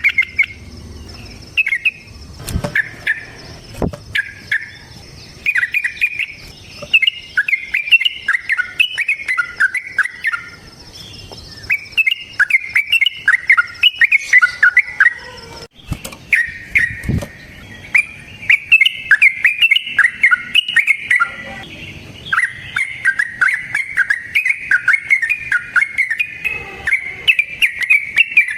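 Yellow-vented bulbul singing its long chattering song: long runs of rapid notes in several phrases separated by short pauses. A few low knocks fall between the phrases.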